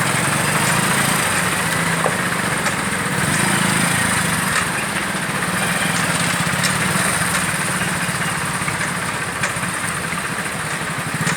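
Vehicle engines running steadily, a low engine hum with light ticks over it.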